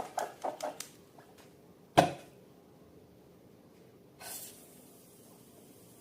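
Slime being handled in several short wet squelches in the first second, then a single sharp pop about two seconds in and a brief faint hiss a little after four seconds.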